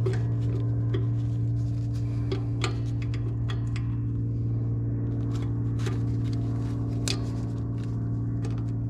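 Steady low mechanical hum with scattered light clicks and ticks, heard while the Jeep's rear brakes are being bled.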